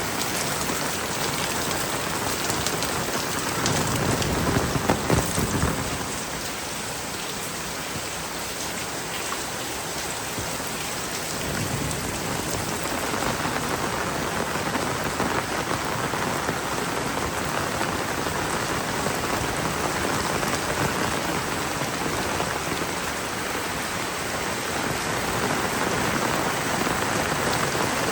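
Heavy rain pouring steadily onto surfaces, with a brief louder low rumble about four seconds in.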